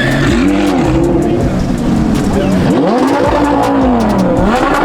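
Car engine being revved hard, its pitch swinging up and dropping back several times in quick blips, the longest swell about halfway through.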